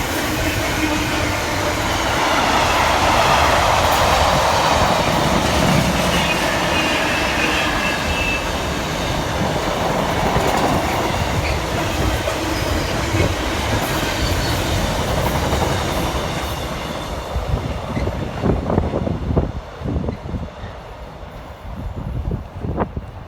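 A train running through the station, its rumble loud and steady with a faint high whine, then dying away about three-quarters of the way in as wind buffets the microphone.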